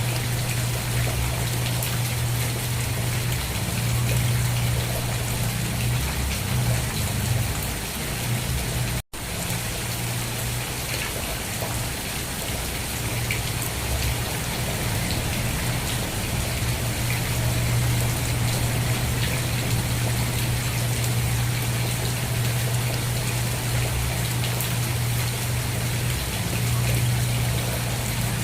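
Steady heavy rain falling, an even hiss of drops with a constant low rumble underneath. About nine seconds in the sound cuts out for a split second and resumes.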